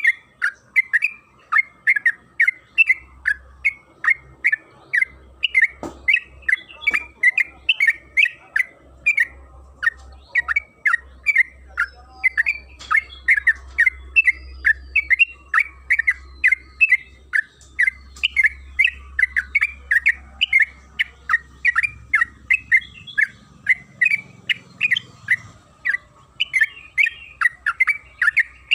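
Yellow-vented bulbul (trucukan) singing a long, unbroken run of quick chirping notes, about three or four a second, with no pause: the continuous song used as a lure to set other trucukan singing.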